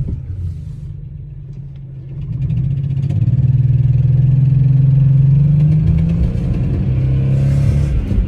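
Car engine running: it idles, then speeds up about two to three seconds in and holds at a higher, steady speed. The engine has a misfire on cylinder 5 and a ticking noise that the owner cannot identify.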